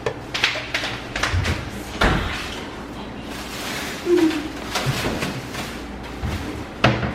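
Kitchen clatter: a string of knocks and bangs, with the loudest slam about two seconds in and more knocks around four and seven seconds.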